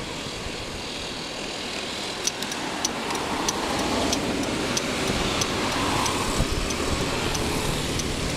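Riding a Kymco Candy 3.0 electric scooter on the road: steady wind and tyre noise with no engine note. From about two seconds in, a sharp tick repeats roughly every 0.6 seconds.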